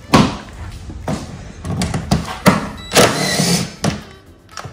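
A cordless power ratchet or impact driver loosening the supercharger's back bolts in short bursts, with a steady high whine in each run. A few sharp metal knocks come before the runs.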